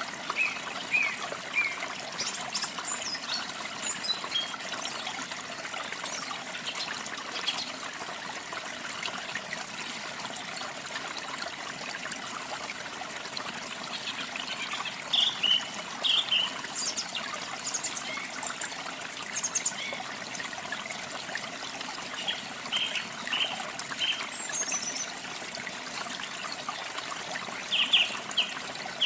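Water trickling steadily, with small birds giving short high chirps now and then; the loudest chirps come in clusters about halfway through and near the end.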